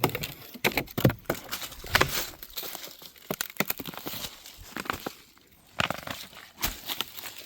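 Irregular rustling and crackling of leaves and twigs being torn, snapped and crushed, with several sharp cracks a second.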